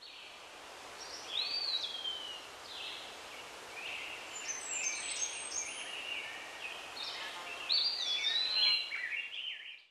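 Birds chirping and whistling, with many short notes and slurred whistles overlapping, over a steady outdoor hiss.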